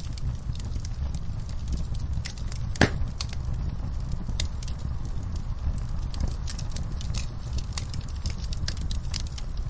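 Wood fire in a fireplace crackling, with many small irregular pops over a steady low rumble and one louder pop about three seconds in.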